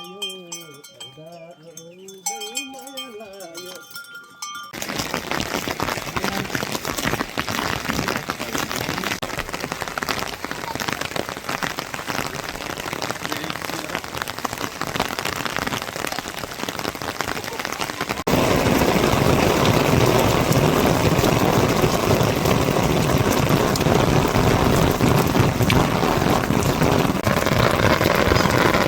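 Steady heavy rain, cutting in abruptly about five seconds in and getting louder after a sudden change about eighteen seconds in. Before the rain there are a few seconds of steady ringing bell-like tones and a wavering pitched call.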